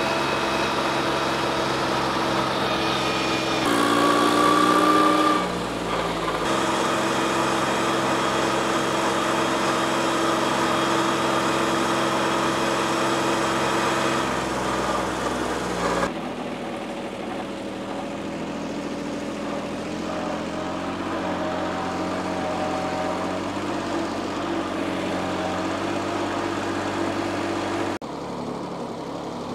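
Diesel engine of working machinery running steadily, rising briefly in pitch and level about four seconds in, with sudden shifts in tone and loudness where the footage is cut.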